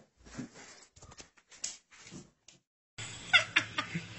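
Soft scattered knocks and rustles, then a steady background hum starts about three seconds in, with a few short, high cat cries near the end.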